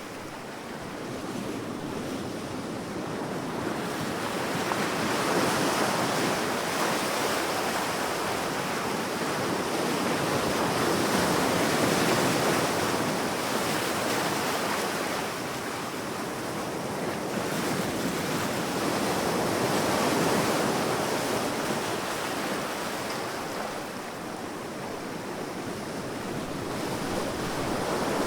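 Sea waves washing onto a sandy shore, a steady surf hiss that swells and recedes in slow surges every few seconds.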